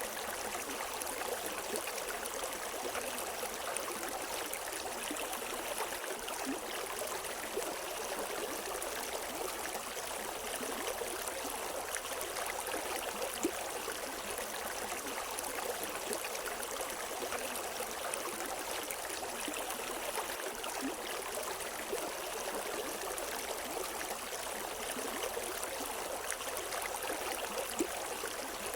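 River water flowing over rocks: a steady rushing with small splashes and gurgles, no birds.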